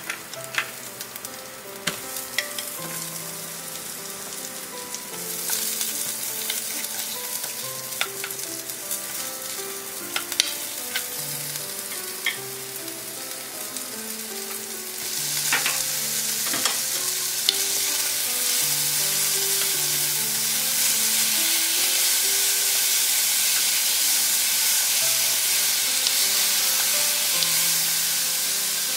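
Sliced garlic and onion sizzling in hot oil in a nonstick wok, with scattered sharp clicks as they are stirred. The sizzle gets louder about five seconds in and again about fifteen seconds in, as more food goes into the pan.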